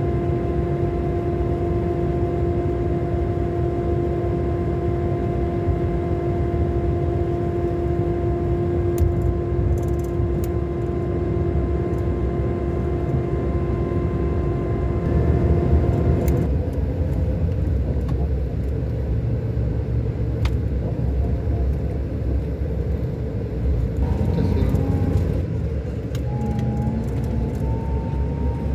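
Scania K400 Euro 5 bus engine, a straight-six, running under way with a steady low rumble. A steady whine rides over it and cuts off suddenly a little over halfway through; fainter tones that shift in pitch come in near the end.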